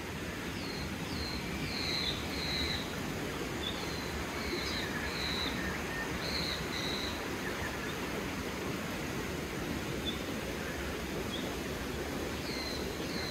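Birds calling: a string of short, high notes, each a quick sliding chirp, through the first half and again near the end, over a steady background rush.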